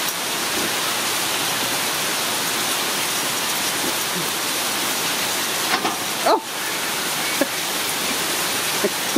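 Steady hiss of heavy rain, with a few brief faint squeaks about two-thirds of the way in.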